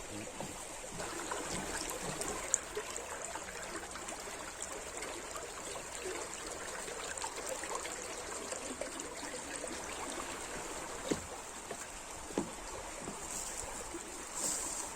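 Stream or brook running steadily, with a few sharp clicks over it.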